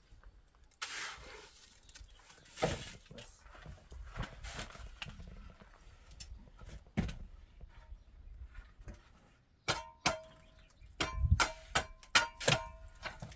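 Scattered knocks and scrapes of building work. About ten seconds in, a run of sharp metal strikes begins, each one ringing, at about two blows a second, like a hammer or mason's hatchet striking metal.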